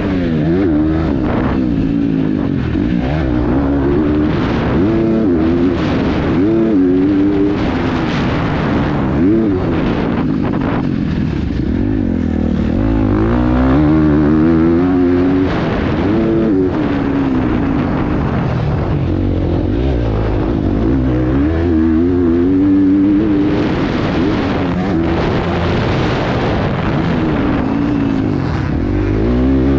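KTM 350 XC-F's single-cylinder four-stroke engine revving up and falling back over and over as the rider opens and closes the throttle around the track. It is heard from a helmet-mounted camera.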